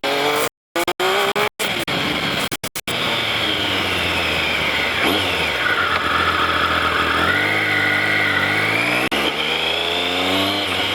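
Triumph Daytona 955i's three-cylinder engine on its standard exhaust, revs climbing, dropping back about halfway, then climbing again. The sound cuts out in several short gaps in the first three seconds, as the camera breaks up under the original pipe's vibration.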